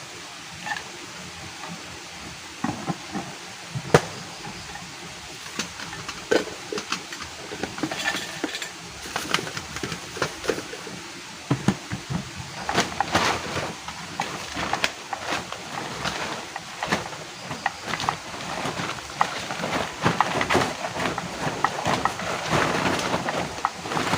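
Cooking utensil clinking, scraping and knocking against a pot or pan in irregular strokes over a steady hiss, with one sharp knock about four seconds in; the clatter gets busier and louder about halfway through.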